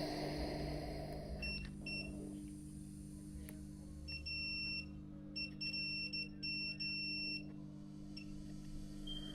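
A series of short, high electronic beeps of uneven length and spacing, some clipped short and some held for about half a second, over a steady low hum.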